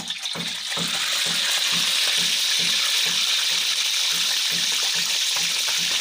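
A whole fish sizzling loudly in hot oil in a steel wok, the hiss building over the first second as the fish goes in and then holding steady.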